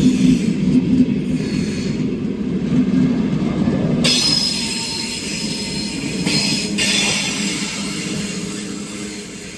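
Train running along the rails with a low rumble; about four seconds in a high-pitched wheel squeal and hiss sets in suddenly, and the whole sound fades near the end as the train moves away.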